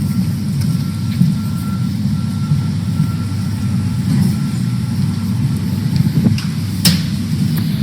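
Steady low rumble of a vehicle heard from inside, with a few light clicks, one sharper click near the end.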